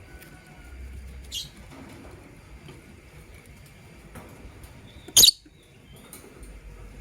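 Lovebirds in a cage: a short, faint high chirp about a second in, then one sharp, loud shrill chirp about five seconds in, over light scratching and shuffling.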